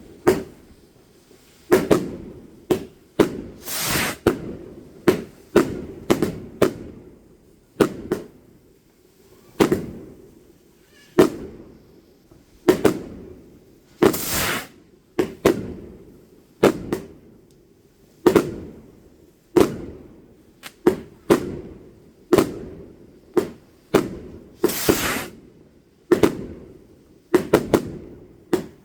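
Fireworks going off: a steady run of sharp bangs, about one or two a second, each with a rolling echo. Three times, roughly ten seconds apart, comes a longer crackling burst of about a second.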